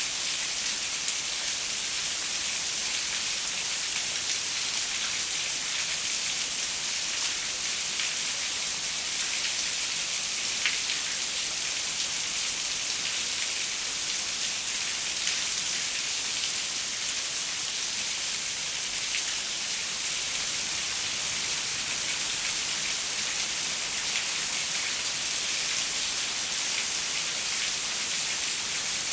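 Steady rain falling on a window: an even, mostly high-pitched hiss with scattered faint drop ticks.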